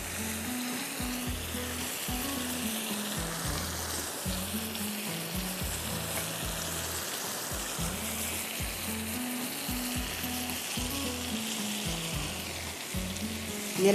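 Chicken breasts in a creamy jalapeño sauce sizzling and spattering hard in a hot cast-iron grill pan, a steady frying hiss. Low background music with a repeating bass line plays underneath.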